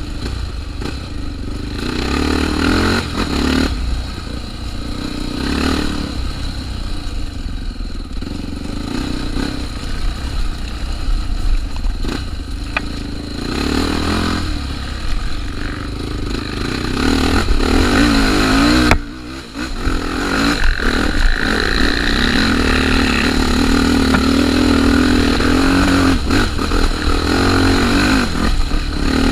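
Trail motorcycle engine revving up and down under load on a rough trail, with a brief sudden drop in level about nineteen seconds in and steadier, louder running afterwards.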